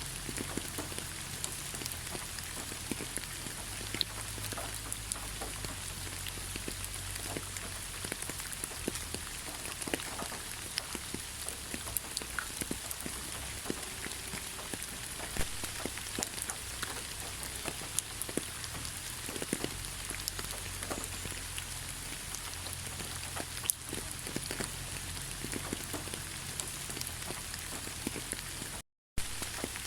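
Steady rain falling, with many individual drops ticking on a surface over an even hiss. It cuts out for a split second near the end.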